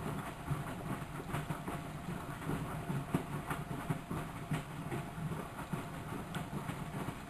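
Miele De Luxe Electronic W763 washing machine running, a steady motor and drum hum with irregular clicks and knocks.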